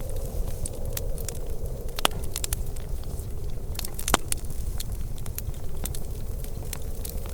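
Wood fire crackling in a fireplace: a dense patter of small crackles over a steady low rumble, with two louder pops about two and four seconds in.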